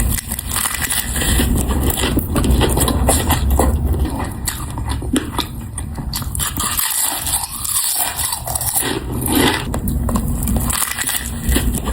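Close-miked eating: chewing and crunching of food, with many small crackles and scrapes.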